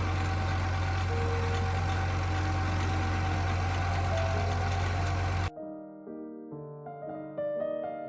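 Farmall B tractor engine running steadily under load from a PTO-driven generator during break-in, with music underneath. About five and a half seconds in it cuts off abruptly and piano music takes over.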